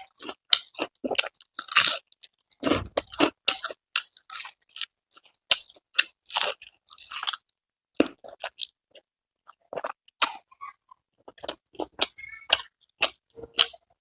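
Close-miked chewing of crispy fried food, with many sharp, irregular crunches and brief pauses between bites.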